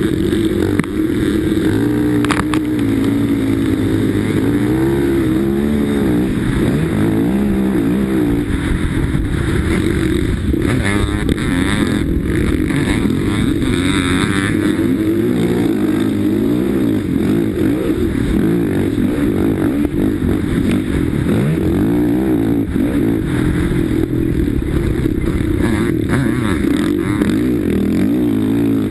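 Racing sidecarcross outfit's engine at high revs, heard close up from onboard the machine. Its pitch keeps rising and falling as it accelerates, shifts and backs off through the corners, with other sidecar outfits running alongside.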